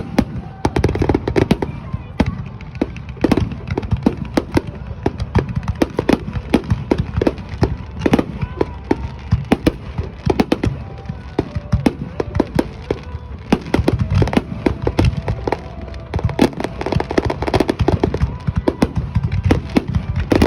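Fireworks display: a rapid, unbroken barrage of aerial shells bursting, many sharp bangs every second, with crackle between them.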